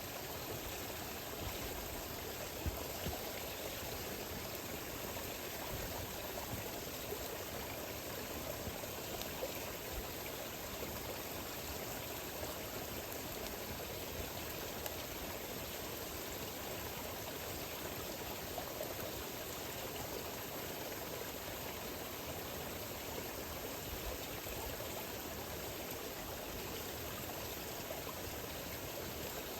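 Campfire burning with a steady hiss and a few faint pops.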